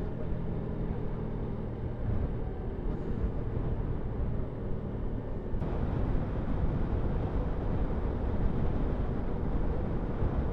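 Yamaha MT-125's single-cylinder engine running while the bike rides along, mixed with a steady rush of wind and road noise on the camera's microphone.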